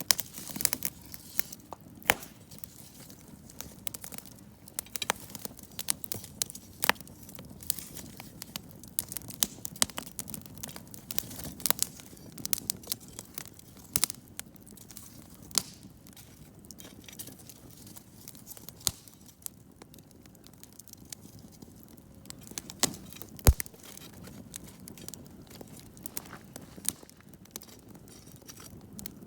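Wood campfire crackling, with frequent sharp pops over a soft low rush of burning; one pop about three-quarters of the way through is the loudest.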